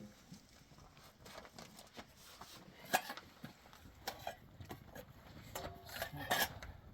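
Irregular light knocks and scraping, with the sharpest knock about three seconds in and a quick cluster near the end.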